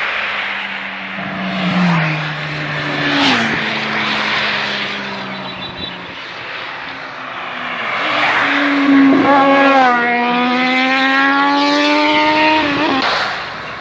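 High-performance vehicle engines accelerating hard, their pitch climbing and dropping with gear changes. The loudest pass comes in the second half: a long, slowly climbing engine note that cuts away near the end.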